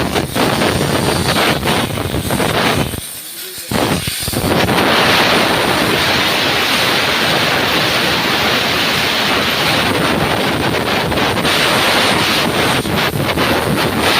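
Pressure spray hissing loudly as it blasts petrol onto a motorcycle chain to clean it. It drops off briefly about three seconds in, then runs steadily.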